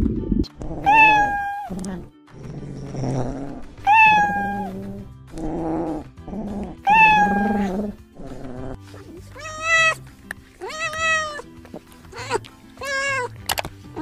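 Domestic cat meowing: three long meows about three seconds apart, then a quicker run of about five shorter meows in the second half, over background music.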